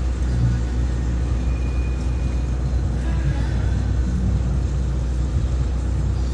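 A steady low engine rumble that keeps an even pitch and level, with faint voices in the background.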